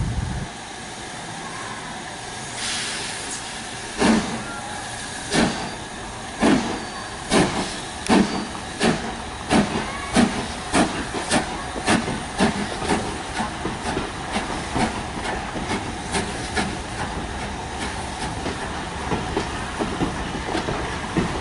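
Three-cylinder Peppercorn A1 steam locomotive 60163 Tornado starting away with its train: a short hiss of steam about three seconds in, then exhaust chuffs about a second apart that quicken steadily and run together into a fast, even beat as it gathers speed.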